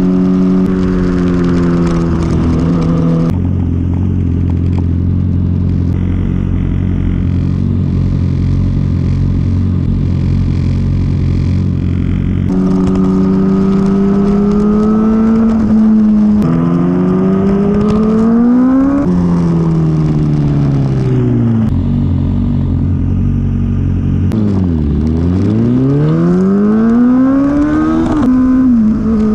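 Inline-four sport motorcycle engine under way, holding a steady note for the first dozen seconds, then revving up through the gears with sharp drops at each shift, dropping away as it slows, and climbing again after a deep dip near the end.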